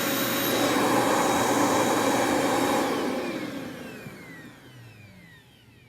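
Eureka Easyclean vacuum cleaner running with a steady motor noise and high whine. About three seconds in it is switched off, and the motor spins down with a falling whine until it is nearly silent.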